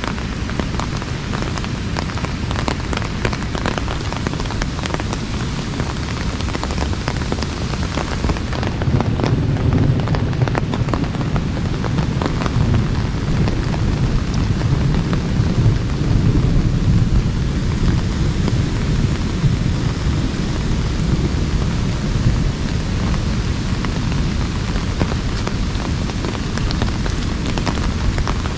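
Heavy rain drumming on an umbrella: a dense hiss of countless drop hits. From about a third of the way in, a deeper low sound swells under it for several seconds, then settles.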